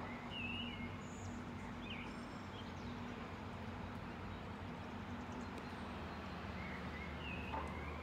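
Outdoor ambience: a steady low background hum with a few short bird chirps, about half a second in, about two seconds in, and again near the end.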